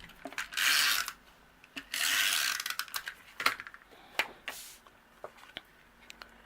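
Cardstock and card pieces being handled on a craft desk: a few short scraping rustles, with sharp clicks and taps in between.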